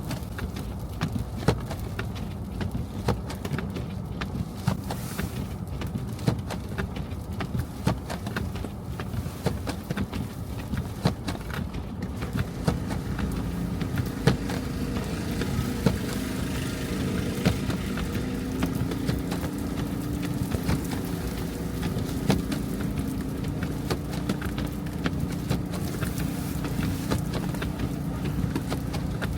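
Car driving through snowy city streets: a steady low road rumble with scattered clicks and taps. From about thirteen seconds in, a steady hum with a few held tones joins it.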